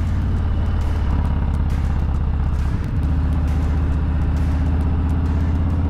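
Harley-Davidson Low Rider S 117 cubic inch V-twin running through a Bassani 2-into-1 exhaust while riding, a steady low exhaust note with a brief break about three seconds in.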